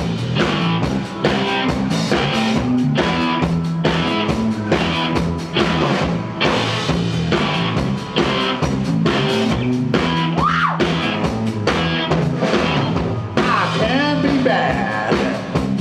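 Live rock band playing an instrumental stretch of a song: drum kit, guitar and bass over a steady beat, with a rising glide about ten seconds in.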